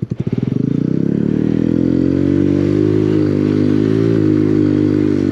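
Motorcycle engine chugging at low revs, then revving up over the first couple of seconds and running steadily under throttle with a slight wavering in pitch.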